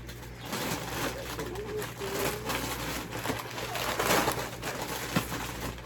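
Plastic snack packets rustling and crinkling as they are handled and laid out, with a short bird call about two seconds in.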